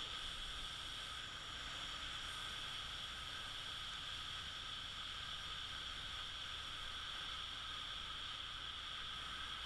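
Steady, even hiss of wind and road noise while riding a Honda SH150i scooter, with no clear engine note and no change in level.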